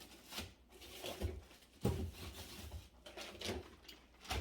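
Food packages and containers being handled and pushed into a refrigerator drawer: a few scattered knocks with soft rustling and scuffing between them.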